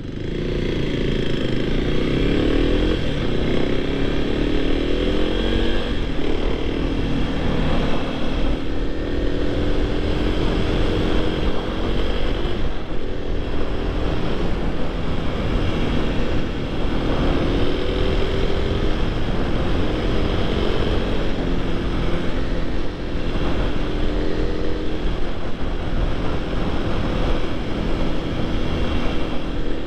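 Supermoto motorcycle engine under way on the road, its pitch climbing as it accelerates and falling back at shifts several times, over a steady low wind rumble.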